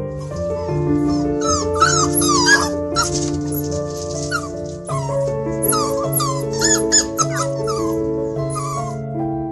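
A puppy whimpering and yipping in short, high, rising-and-falling cries, in two spells, about a second in and again from the middle, over soft background music with held notes.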